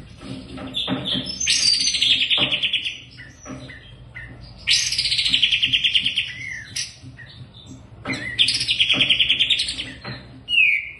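A songbird singing three long, rapid trilled phrases with short pauses between them, each phrase opening with a quick downward sweep, and a short falling note near the end.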